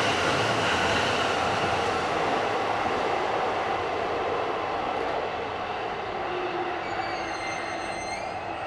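JR East E259 series Narita Express electric train running past and pulling away, its running noise slowly fading. Near the end, a high whine of several tones comes in for about a second and a half.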